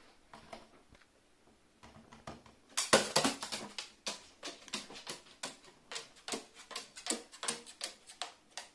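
Light, irregular clicking and tapping of small hard objects, a few taps a second, beginning about three seconds in after a near-silent start.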